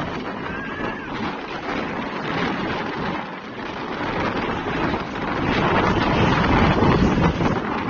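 Wind buffeting the microphone over the rumble of road traffic, growing louder about five and a half seconds in.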